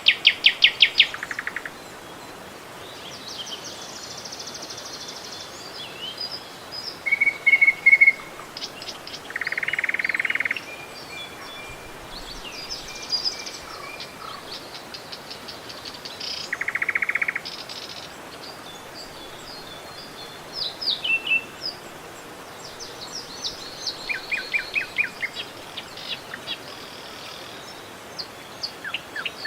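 Songbirds singing in short phrases of fast repeated notes every few seconds, over a steady rush of flowing river water.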